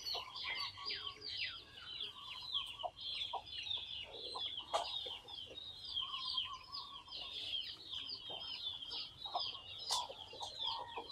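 Birds chirping continuously, many short high calls overlapping one another, with some lower calls and the odd click among them.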